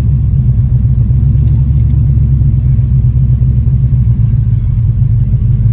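LS V8 engine in an Oldsmobile Cutlass idling steadily in park, a loud, even low rumble.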